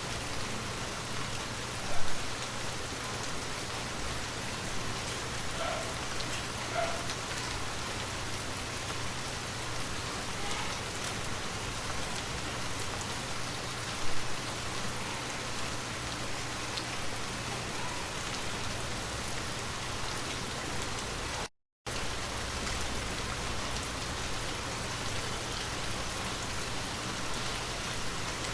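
Steady rain falling, with a couple of sharper, louder drops or taps close by about 2 seconds and 14 seconds in. The sound cuts out completely for a fraction of a second a little past the middle.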